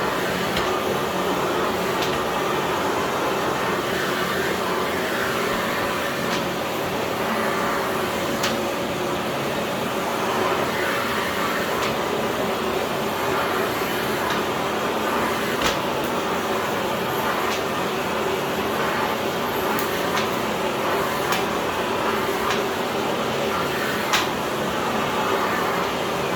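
Philips PowerPro FC9331/09 900 W bagless vacuum cleaner running steadily: an even motor hum and rush of air, with a few sharp clicks scattered through.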